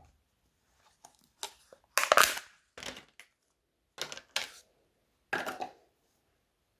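Crunchy slime being squeezed and pressed by hand, giving a series of short crackling crunches, about six, with the loudest about two seconds in.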